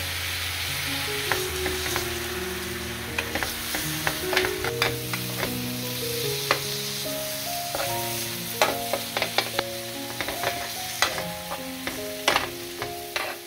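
Glazed pork back ribs sizzling in a ridged grill pan as the chili glaze cooks down, with a steady frying hiss. From about three seconds in, metal tongs turning the ribs give many sharp clicks and taps against the pan, under soft background music.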